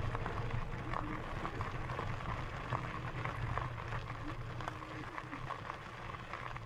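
E-bike tyres rolling over a gravel trail: a steady low rumble with scattered small crunches and ticks.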